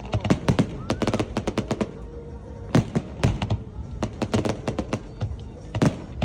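Fireworks going off: many sharp bangs in quick, irregular clusters.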